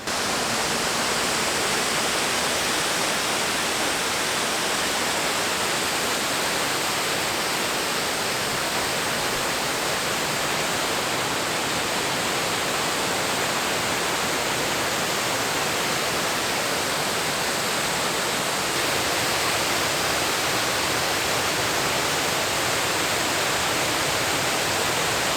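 Large waterfall close by: a steady, dense hiss of falling water that never changes in level.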